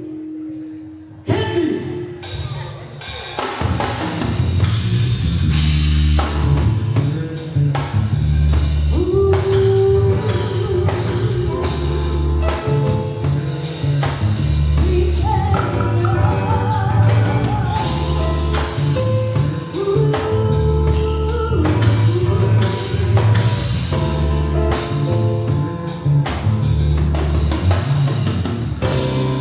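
A small live band playing a song, with a drum kit and bass carrying a steady beat and a melody line above; the band comes in about a second in.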